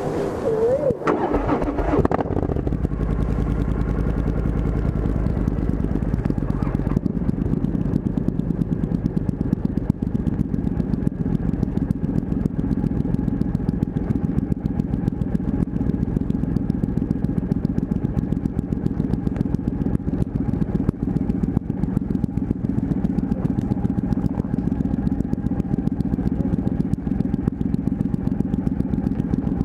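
Triumph Thunderbird's parallel-twin motorcycle engine starting up in the first couple of seconds, then idling steadily.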